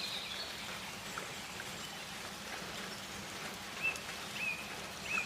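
Rainforest ambience: a steady hiss of rain, with three short high bird chirps in the second half.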